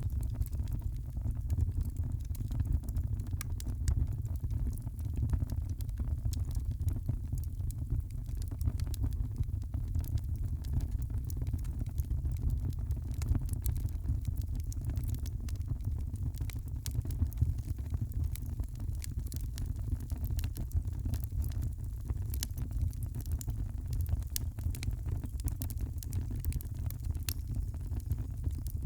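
Wood fire burning in a fireplace: a steady low rumble under frequent sharp crackles and pops scattered irregularly throughout.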